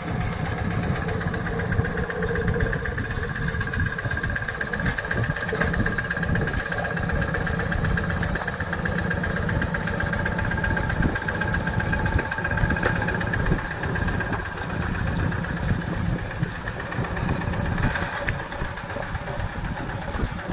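Yanmar tractor's diesel engine running steadily with a rapid knocking beat, with a steady whine throughout.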